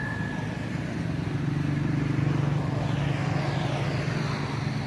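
A motor vehicle's engine passing by, growing louder to a peak about two seconds in and then easing off.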